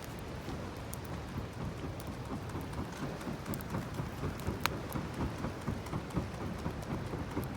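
Campfire burning with dense crackling and scattered sharp pops, the sharpest about two-thirds of the way through.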